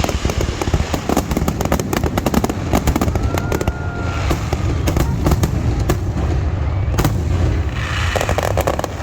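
Fireworks display in a dense barrage: rapid, overlapping bangs and crackles, several a second, without letup.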